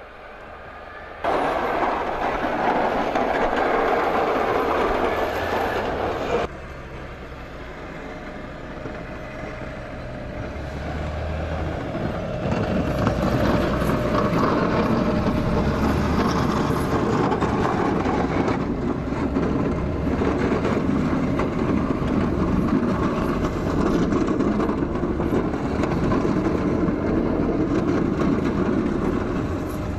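Heavy snow-removal machinery running: a steady, dense mechanical rumble and rush, with sudden jumps in level about a second in and again about six seconds in.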